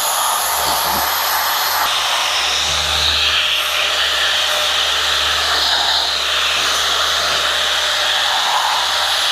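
Random orbital sander with 220-grit paper running steadily on a cast iron machine table, sanding out rust spots and light pitting.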